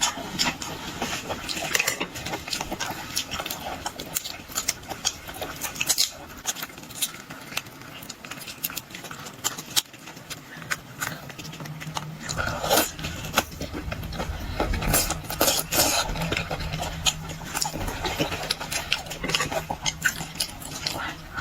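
Close-up eating sounds of raw geoduck sashimi: wet chewing and lip smacking with many sharp crunchy clicks, with a low steady hum coming in about twelve seconds in.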